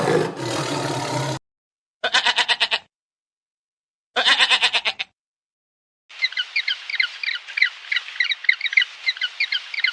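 A tiger's roar that cuts off about a second in, then two short quavering bleats a couple of seconds apart, then a long run of quick high-pitched chirping from about six seconds in.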